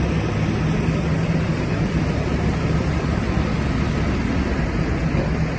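Steady street noise dominated by a continuous traffic rumble, loud and even throughout.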